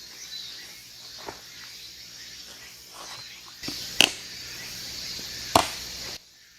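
Several sharp knocks, the loudest two about a second and a half apart, over a steady high hiss; the sound cuts off suddenly near the end.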